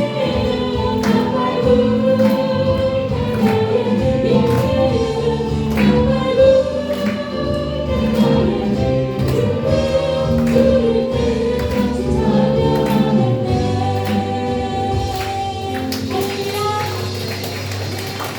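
Contemporary Korean worship song sung by a group of voices over a band with a steady beat. The voices drop out near the end, leaving the instruments playing.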